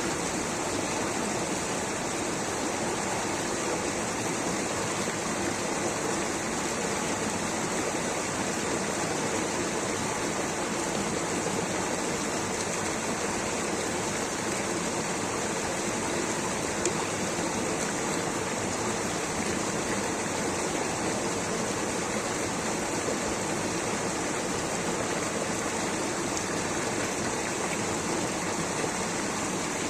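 Rushing water from a stream or small waterfall: a steady, even rush that does not change.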